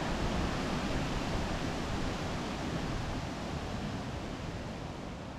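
Steady rush of sea surf and wind, with no distinct waves or clicks, slowly fading down.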